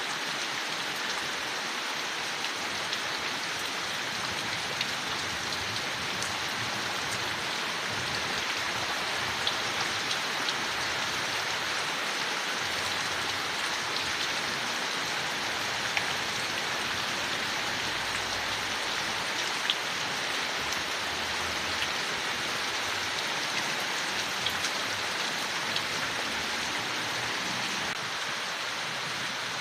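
Steady rain falling on leaves in a forest, an even hiss with scattered sharper drop ticks.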